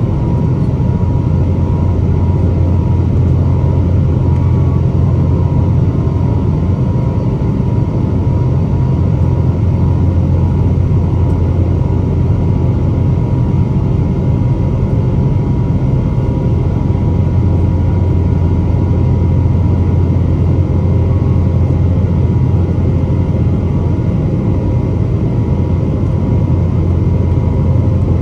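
Boeing 777-300 jet airliner's twin engines under power, heard inside the cabin: a loud, even rumble with a faint steady whine above it.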